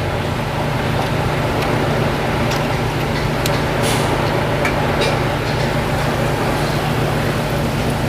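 Steady low machine hum in a workshop, with a handful of light, sharp clicks of hand tools on metal as a rusted bolt is worked loose.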